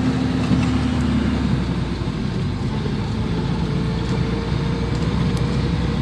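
1980 Land Rover Series III engine running steadily at low revs, with a slight change in its pitch around the middle.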